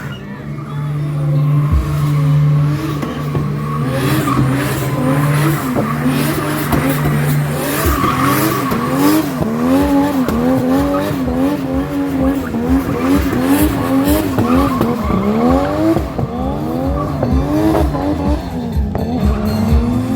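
A car being drifted: its engine revs rise and fall over and over, about once a second, while the tyres squeal.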